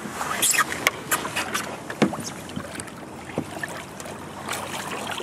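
Moving river water with irregular splashes and knocks, several close together in the first second and a half.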